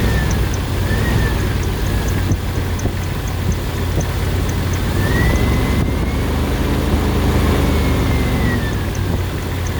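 2000 Jeep Wrangler TJ's 4.0-litre straight-six engine running, with a high whistle whose pitch follows the revs: two short blips in the first couple of seconds, then a longer rev from about halfway that holds for a few seconds and drops back. The whistle is most noticeable just off idle; the owner is unsure whether it comes from a vacuum leak or the intake.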